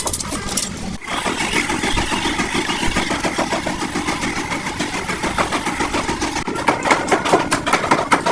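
An engine running with a rapid, even pulsing beat. About six and a half seconds in, the sound turns into a sharper run of regular knocks.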